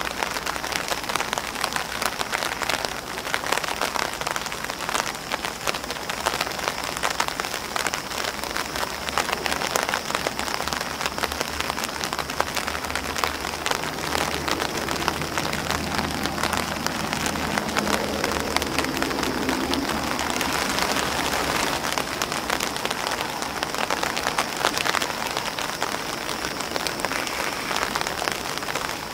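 Steady rain falling on an umbrella and on grass leaves: a dense, even stream of drop taps.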